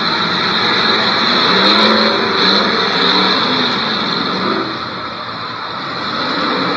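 Several demolition derby cars' engines revving together, their pitches rising and falling over a dense wash of noise, easing off briefly about five seconds in.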